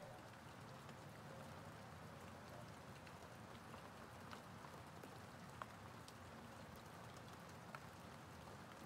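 Faint, steady synthesized hiss with a few scattered light ticks, like soft rain.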